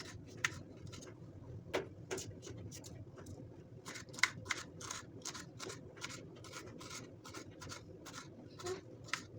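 A run of light, irregular clicks and scrapes, two to four a second, from objects being handled.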